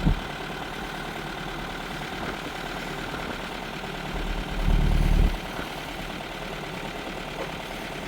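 Sailboat's inboard engine running steadily at low speed while motoring into the harbor, with a brief louder low rumble about halfway through.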